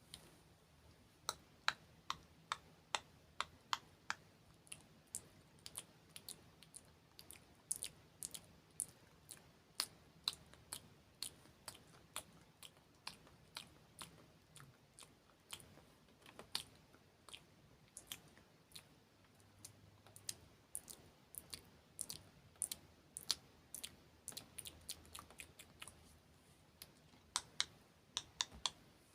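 ASMR hand and mouth sounds picked up close to the microphone: a quick, irregular string of sharp clicks, a few each second.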